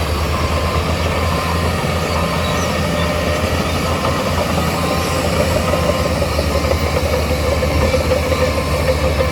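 Heavy earthmoving machine's diesel engine running steadily with a low rumble, and a mid-pitched whine that becomes stronger in the second half.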